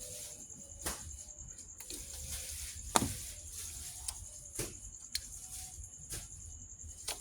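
Scattered clicks and knocks of parts being handled under a car's bonnet, the loudest about three seconds in, over a steady high-pitched hiss.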